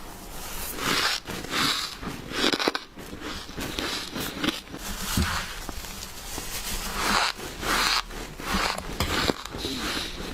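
Biting into and crunching powdery freezer frost close to the microphone: a string of short, crisp, squeaky crunches at an irregular pace.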